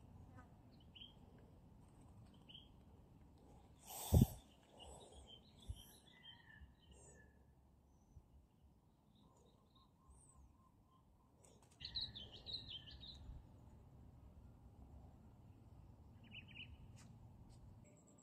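Birds chirping in short, scattered calls over a low background hiss, with one sharp thump about four seconds in, the loudest sound.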